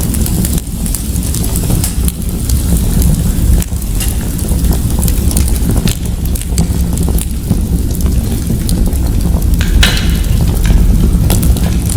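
Wood fire crackling in a fireplace: a steady low rumble of the flames with many small irregular pops and crackles, and one sharper crackle about ten seconds in.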